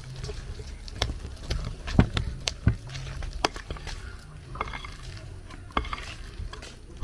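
Stirring a thick plantain mixture in a pot: irregular clicks and knocks of the utensil against the pot, the loudest about two seconds in, over a low steady hum.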